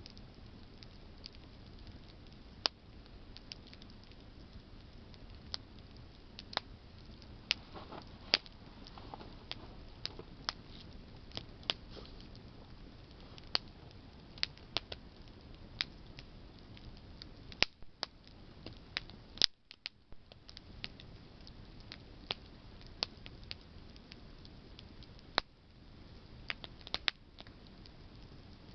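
Campfire of burning branches crackling: sharp, irregular snaps and pops, a few every second, over a faint steady rush.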